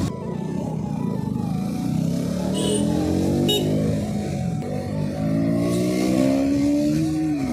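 KTM Duke's single-cylinder engine running under the rider, its pitch rising as the bike accelerates, easing off about four seconds in, then climbing again and dropping at a gear change near the end.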